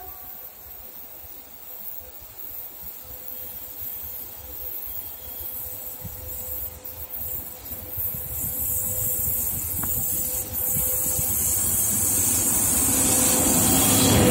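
Freight train hauled by a VL80S electric locomotive approaching: a rumble and hiss that grows steadily louder, swelling further in the last few seconds as the locomotive draws level.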